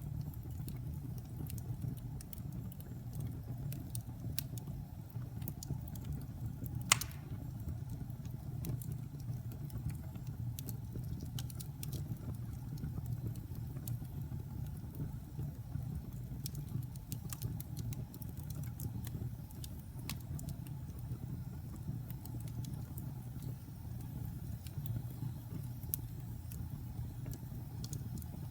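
Wood fire in a fireplace burning with a steady low rumble and scattered small crackles, and one sharp, loud pop about a quarter of the way in.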